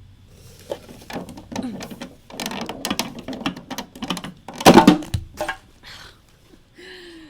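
Plastic model kit parts being handled and fitted together, with irregular small clicks and rattles. The loudest clatter comes a little past the middle.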